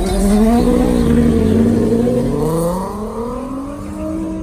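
Car engine accelerating hard, its pitch holding and then climbing steadily through most of the clip.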